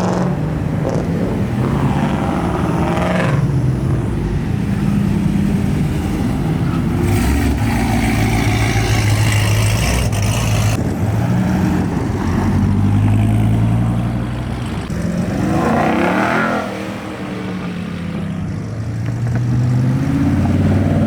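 Performance car engines revving and accelerating as they pull away, the engine note rising and falling several times, with a harsher, noisier stretch about seven to ten seconds in.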